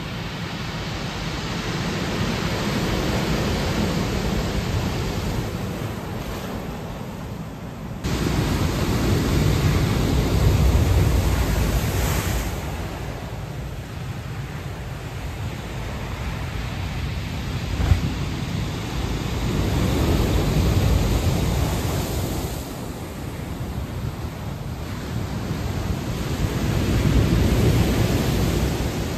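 Sea surf in a windstorm: waves surge and fall back in slow swells every several seconds, with wind rumbling on the microphone. The sound jumps suddenly louder about eight seconds in.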